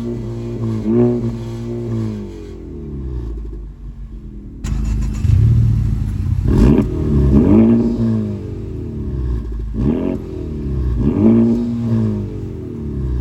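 Honda Civic Type R's turbocharged four-cylinder engine being free-revved through its exhaust: quick blips where the pitch jumps up and slides back down, twice early on and four more times after a cut about four and a half seconds in, where the revving comes back louder.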